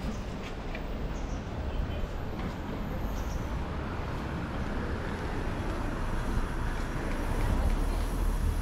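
Steady low rumble of a moving vehicle with road noise, holding an even level throughout.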